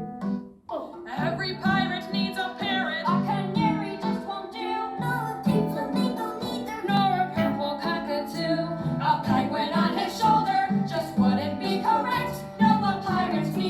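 A song sung over a plucked-string accompaniment, starting up again about a second in after a brief pause.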